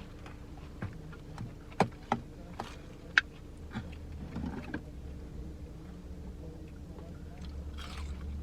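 Takeout food packaging and a plastic sauce cup being handled while a fry is dipped: a few sharp plastic clicks and light rustling, over a steady low hum inside the parked car.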